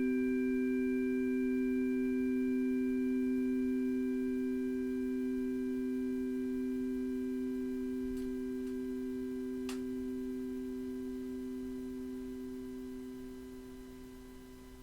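Singing bowl tones ringing on: two strong, steady, pure low notes with fainter higher overtones, slowly fading away over the last few seconds. A faint click about ten seconds in.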